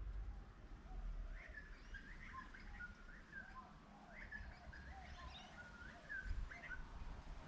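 Birds chirping: a quick run of many short, high, rising-and-falling chirps that starts a little over a second in and continues to near the end, over a faint low rumble.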